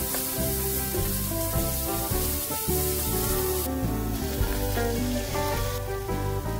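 Minced garlic sizzling in hot cooking oil in a frying pan as it is stirred with a wooden spatula; the sizzle thins out a little past halfway. Background music plays throughout.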